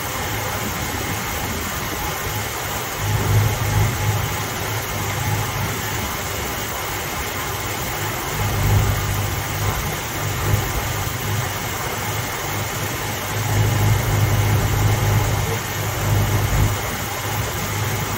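Ford 289 V8 in a 1960s Mustang idling steadily, its note swelling a little louder a few times.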